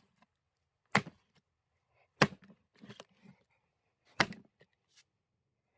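Axe splitting firewood: three sharp chopping strikes about a second and a half apart, each followed by smaller cracking as the wood splits and falls.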